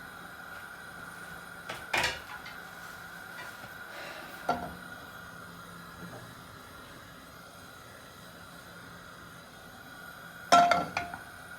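Kitchen clatter of a frying pan and utensils being handled: a couple of single sharp clinks, then a louder cluster of knocks near the end, over a faint steady hum.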